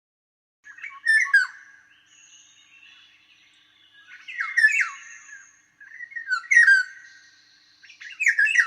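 A songbird singing four short phrases of rapid notes sweeping up and down, each a second or so long, with pauses between them.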